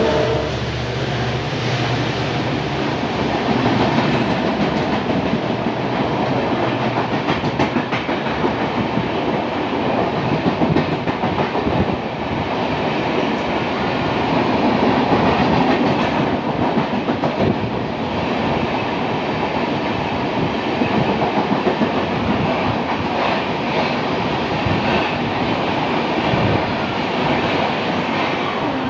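A diesel-hauled Jan Shatabdi Express passenger train rolling past at speed after its horn cuts off at the very start. It makes a steady, loud rumble as the wheels clatter over the rail joints and points of a junction.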